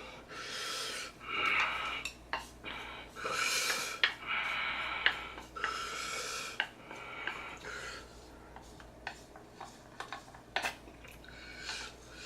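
Eating from a bowl of very spicy noodles: utensils clicking and scraping against the bowl, between heavy, hissing breaths and sniffs of someone fighting the chili heat.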